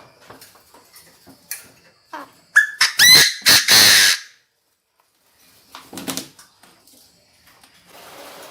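Chinese francolin crowing: a whistled note that bends upward, then a loud, harsh burst of calls about three to four seconds in, and a shorter, lower call around six seconds.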